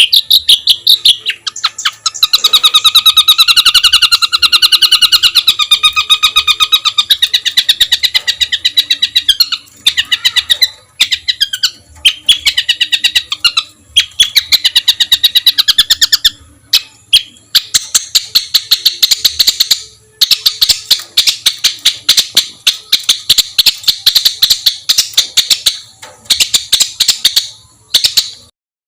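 Songbird singing a masteran of harsh, rapid 'tembakan kasar' phrases: fast stuttering trains of sharp repeated notes in bouts of a few seconds, separated by brief pauses, ending shortly before the close.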